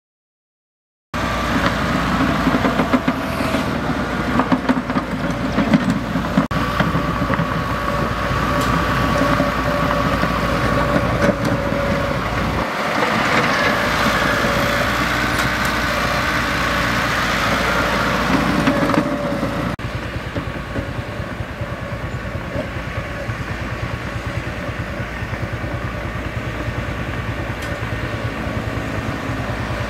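Mitsubishi bulldozer working: its diesel engine runs steadily under load, with a steady high whine over it. The sound starts about a second in and becomes somewhat quieter after a sudden break about two-thirds of the way through.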